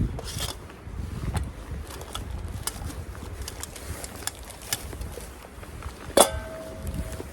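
Camping gear being handled: small clicks and knocks, then one sharp metallic clank about six seconds in that rings on for about a second, like a metal piece of cookware or stove being set down.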